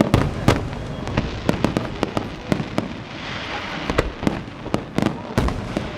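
Fireworks display: a rapid, irregular string of bangs over a continuous rumble of distant shell bursts, with a crackling hiss about three seconds in.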